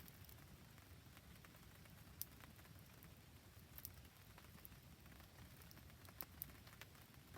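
Faint rain patter and a wood campfire crackling, with a few scattered sharp ticks; the loudest comes about two seconds in.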